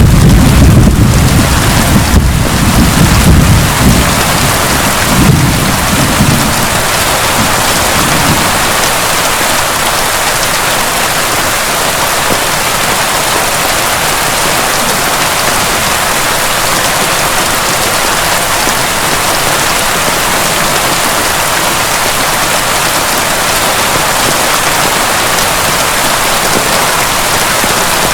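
Steady heavy rain pouring down, with a low thunder rumble that fades out about eight seconds in.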